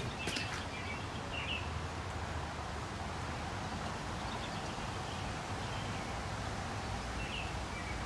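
Outdoor ambience: a steady low background noise with a few short bird chirps near the start and again near the end.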